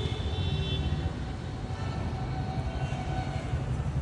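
Road traffic: a steady engine rumble with vehicle horns sounding, once in the first second and again around two to three seconds in.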